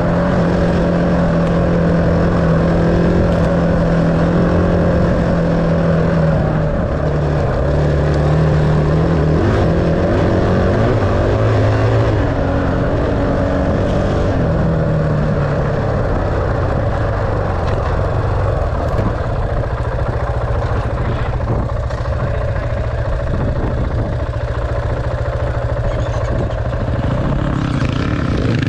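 Dirt bike engine running, its pitch stepping up and down and gliding as the throttle changes.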